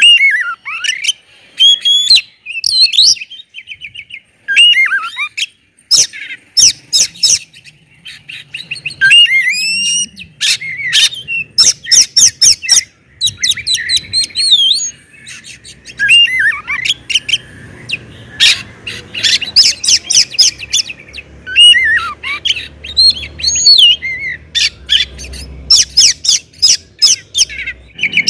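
Oriental magpie-robin (kacer) singing loudly: a varied run of clear whistles sliding up and down, sharp squawk-like notes and quick trills, phrase after phrase with short pauses between.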